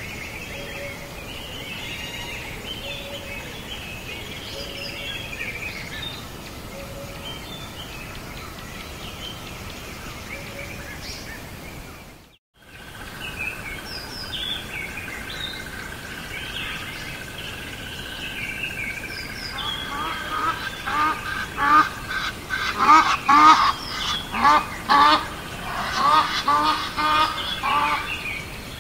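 Birds calling and chirping, with a brief dropout near the middle, then a run of loud, rapid honking calls in the last third.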